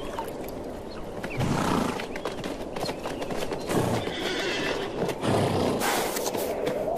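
Feral Namib desert horses calling with short low neighs several times, with hooves clip-clopping on hard ground.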